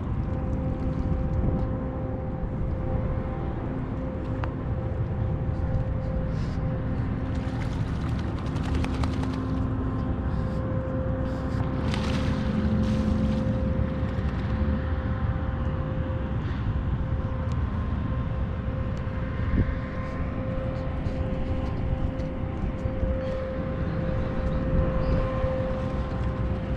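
A steady engine drone, one unchanging hum, over a constant low rumble of wind on the microphone.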